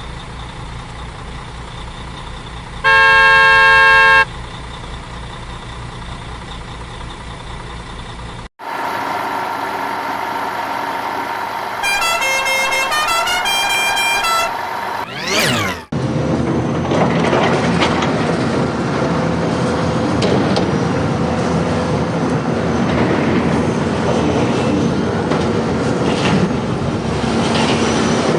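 Vehicle engine sound effects: a steady engine hum with a loud horn blast about three seconds in, lasting about a second. After a cut, another engine hum with a quick run of electronic beeps, then a whoosh and a busier rumbling clatter.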